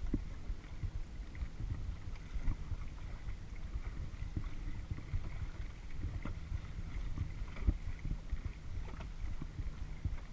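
Kayak on the move: water splashing and dripping from paddle strokes, with irregular light knocks, over a steady low rumble of wind on the action-camera microphone.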